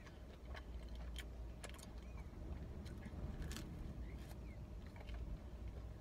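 Mouth sounds of biting into and chewing a slice of pizza: scattered small clicks and smacks, over a steady low hum.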